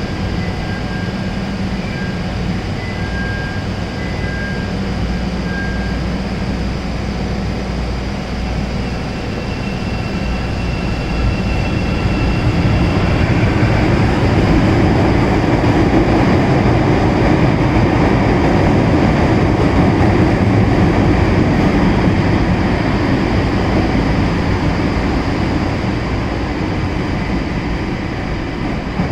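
Two Bombardier 5000-series CTA rapid-transit trains departing together: a steady rumble of wheels on rail and traction motors, with a few faint whining tones in the first half. It grows louder about twelve seconds in and eases off near the end as the cars pass and move away.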